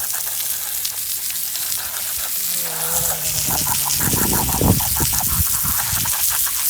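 Steady hiss of a water spray jet washing mud off toy monster trucks, with a brief voice partway through.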